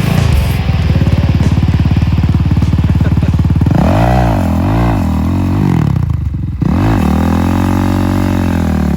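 Dirt bike engine running hard close by, its pitch rising and falling several times with the throttle midway, dipping briefly, then climbing and holding at high revs.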